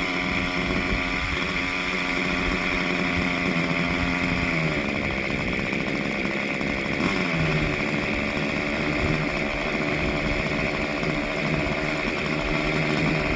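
Nitro (glow-fuel) engine of an 1980s-era model helicopter running on the ground while being warmed up before flight, a steady high-pitched buzz. Its note steps down about four and a half seconds in and shifts again a few seconds later.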